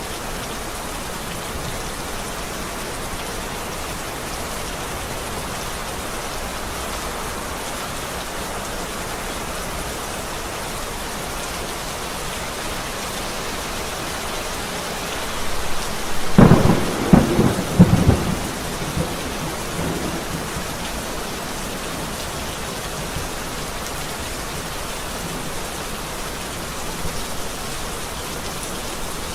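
Steady rain falling, with a loud crack and rumble of thunder about halfway through that fades away over a few seconds.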